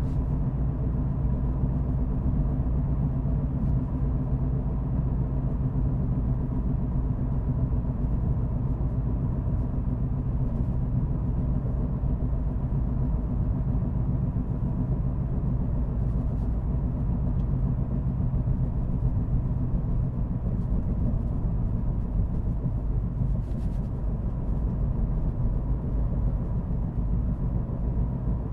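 A car driving steadily: a low, even rumble of engine and road noise that holds constant without revving or braking.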